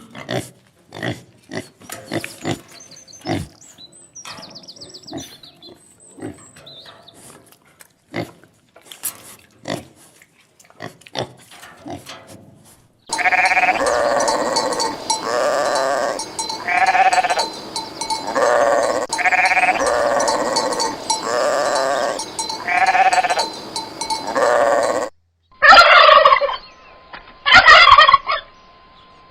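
Farm animal calls: first scattered short sounds, then from about the middle a call repeated roughly every second and a half over a steady background, and near the end a few loud, brief calls.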